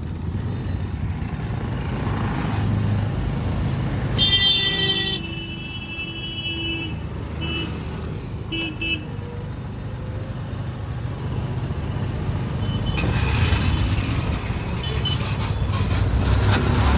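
Traffic and a motor scooter's engine running on the road, with a steady low rumble. A vehicle horn blares for about a second around four seconds in, followed by two short toots a few seconds later, and the road noise swells near the end.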